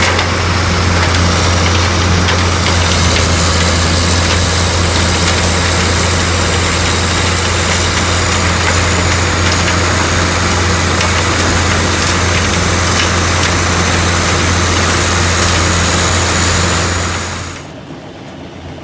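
Large diesel engine running steadily at constant speed, a strong low hum with a hiss over it, cutting off suddenly near the end.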